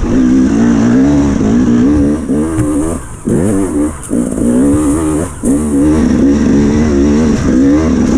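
Enduro dirt bike engine revving hard under load on a wet hill climb, its pitch wavering as the rear wheel grips and spins. The throttle is briefly backed off and reopened about three times in the middle.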